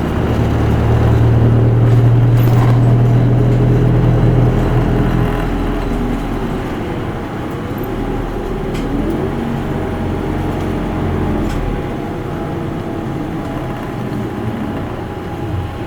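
Isuzu Erga Mio city bus's diesel engine heard from inside the cabin, pulling hard for the first few seconds, then easing off to a steadier, quieter run.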